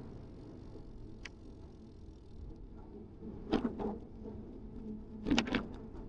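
Riding a bicycle: a steady rumble of tyres and wind on the microphone, with short rattling knocks about three and a half and five and a half seconds in.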